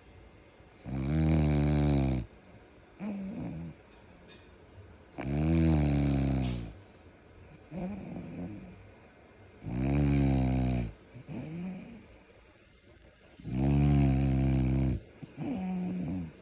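French bulldog snoring: four loud snores about every four seconds, each followed by a shorter, softer breath sound.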